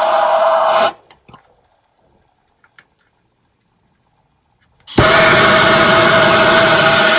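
Soldering torch flame running with a steady hiss and a droning tone, shut off about a second in. A few faint clicks follow, then the torch relights abruptly near five seconds and keeps burning.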